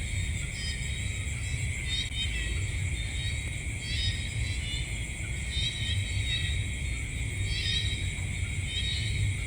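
Night chorus of insects: steady high-pitched trilling, with a short chirping call that comes back every couple of seconds, over a constant low rumble.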